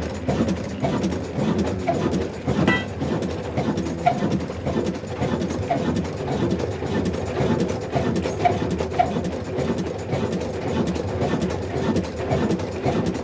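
Old single-cylinder black desi diesel engine running steadily with an even, rhythmic beat.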